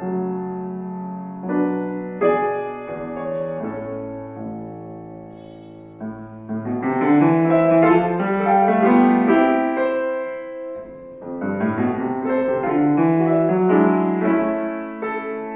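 Solo acoustic piano playing classical music: held chords for the first few seconds, then fuller, louder runs of notes swelling twice.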